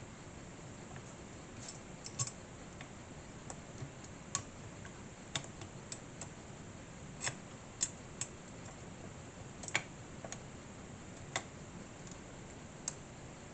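Faint, irregular small clicks and taps of small model parts and a tiny Allen key being handled while pieces are fitted into a scale-model motorcycle frame, over a steady low hiss.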